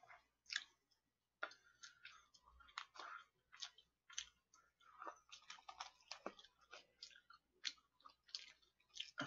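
Faint, irregular wet clicks and smacks of a person chewing fried chicken close to the microphone.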